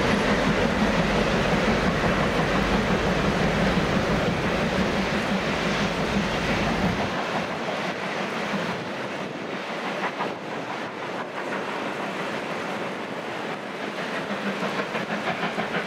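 Passenger train with a Class 47 diesel locomotive on the rear rolling past on the rails and moving away. The low rumble drops off about seven seconds in, leaving lighter wheel and rail noise.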